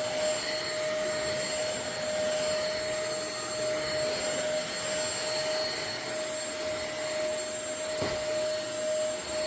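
Intercleaner corded stick vacuum's 400 W motor running steadily, a constant high whine over the rush of air being drawn through it at full suction. There is a brief knock near the end.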